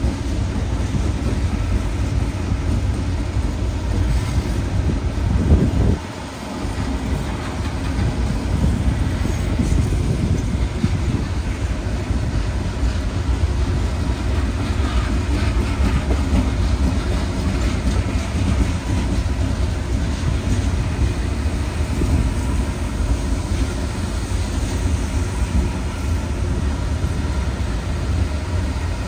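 A string of diesel locomotives rolling past at close range: a steady low rumble of wheels on rail with some clickety-clack of the rail joints. There is a short louder burst just before six seconds in, then a brief drop.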